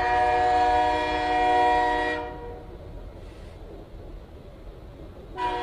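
Train horn sounding a long, steady chord that cuts off a little after two seconds in, then a second short blast starting near the end.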